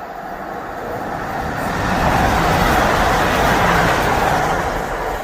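A train passing on the line, its rumble and rush swelling to a peak midway and then fading.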